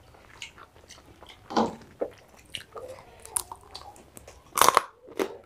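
Mouth sounds of people eating rice and curry by hand: chewing, biting and lip smacks in short irregular clicks, with a louder burst about four and a half seconds in.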